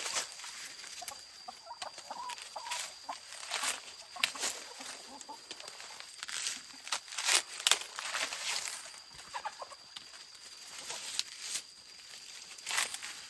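Chickens clucking, mixed with repeated sharp crackling or rustling sounds and a faint steady high tone.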